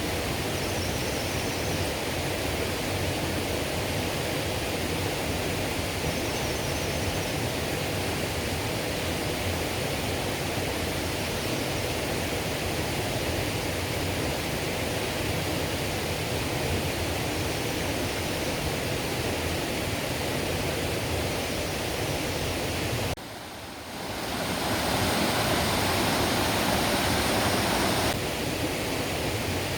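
Mountain stream water rushing steadily over rocks. About three quarters of the way in it cuts out for a moment, then comes back louder for a few seconds.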